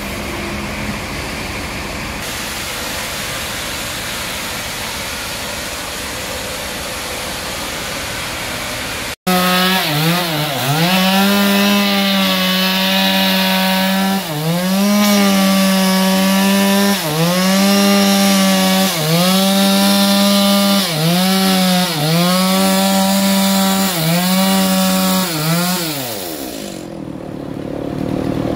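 Band sawmill cutting a trembesi log. Steady sawing noise at first, then, after a sudden break, a loud pitched drone from the saw's drive that dips in pitch again and again as the blade loads in the wood and recovers. It winds down near the end.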